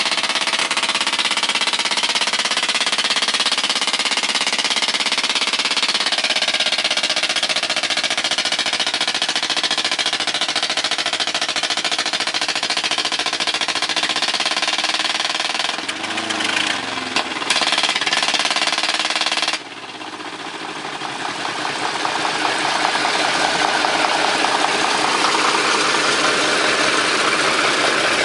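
Caterpillar D13000 diesel engine running a sawmill, a loud, rapid, steady exhaust beat. About two-thirds of the way through the sound falters, drops suddenly, then builds back up over a few seconds.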